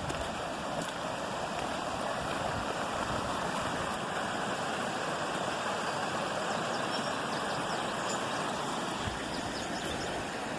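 Steady rush of rain-swollen runoff water pouring down a stream channel.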